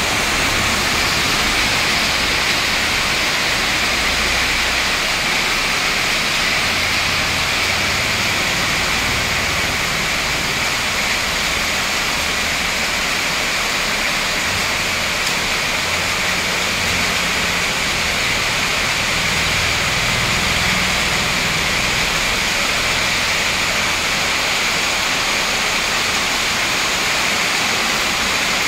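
Heavy rain pouring down steadily, a dense even hiss, with gusting wind adding a low rumble that comes and goes.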